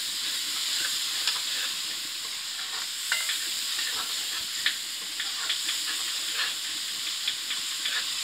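Onion-tomato masala sizzling in oil in a metal karahi while a metal spoon stirs and scrapes through it, with irregular light clicks of the spoon against the pan over a steady frying hiss. The masala is being fried down (bhuna) with its spices.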